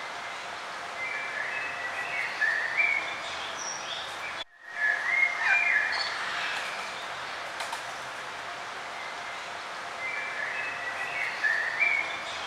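Birds singing in short chirping phrases over a steady background hiss, the phrases coming in three clusters; a brief gap in the sound about four and a half seconds in.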